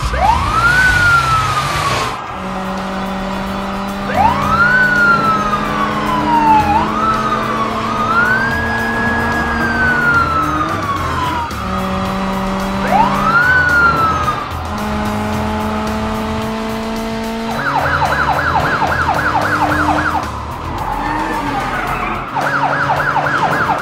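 Police car siren sound effect: a wail rising and falling several times, then switching to a rapid warbling yelp about three-quarters of the way through, over background music.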